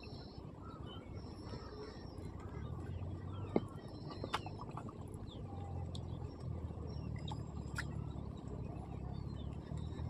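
Birds chirping now and then over a low, steady hum, with two sharp clicks near the middle.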